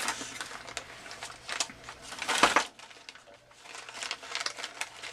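Plastic baggie of small hobby motors and gears crinkling and rustling as it is handled, with scattered small clicks; the loudest rustle comes about two and a half seconds in.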